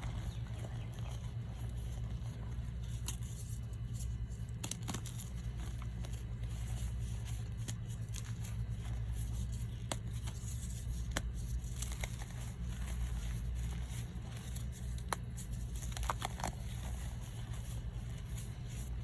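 Reformed powder blocks (gym chalk and baby powder pressed back into blocks) being crushed by hand, giving sparse, sharp crunches and crackles at irregular intervals, with a small cluster about sixteen seconds in. A steady low hum runs underneath.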